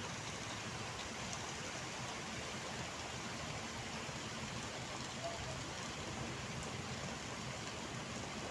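Heavy rain falling steadily as a continuous even hiss, with a few separate drops ticking now and then.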